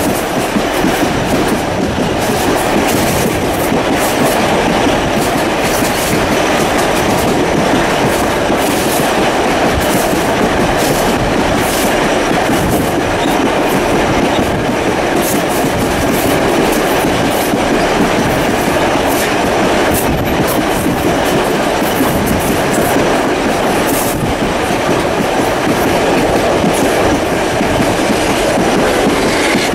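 Steam-hauled passenger train running along the line, heard from an open carriage window: a steady loud rumble of wheels on rails with scattered clicks from the track.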